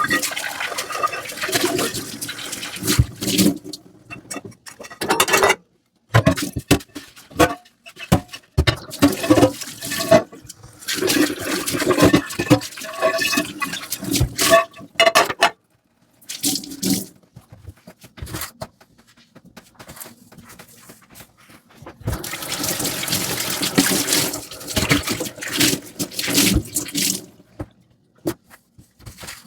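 Dishes being washed by hand in a sink: water splashing and pouring in bursts broken by short pauses, with sharp knocks of dishes. A longer stretch of steady running water comes about three quarters of the way through.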